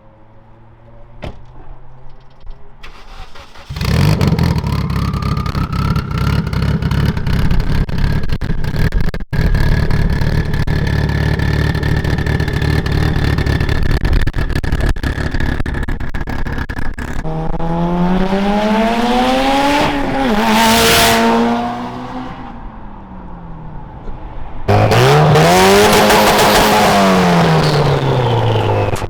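Car engine with full bolt-on modifications accelerating hard from about four seconds in, with a long rising whine through the pull. Then it revs up and back down twice.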